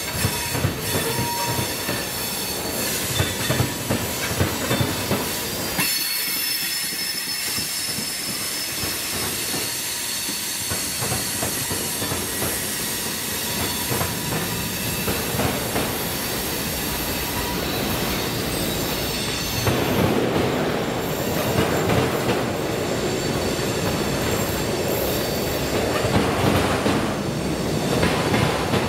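Cars of a slow CSX freight train rolling past, steel wheels squealing with steady high tones and clacking over the rail joints. It gets louder about two-thirds of the way through.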